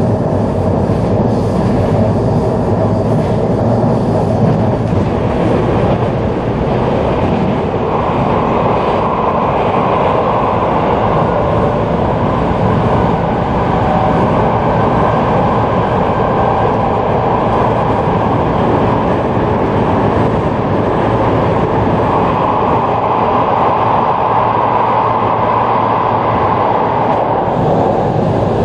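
A local electric train running at speed on the rails, heard from inside the car as a steady rumbling running noise. A higher part of the noise grows louder for a few seconds about a third of the way in and again near the end.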